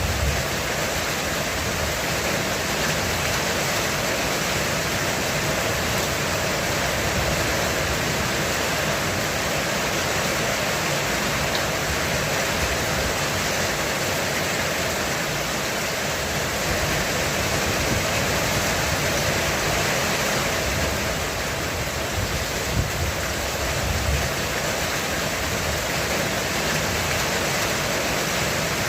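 Heavy rain drumming steadily on a roof, a dense unbroken hiss. A low rumble of distant thunder swells and fades in the second half.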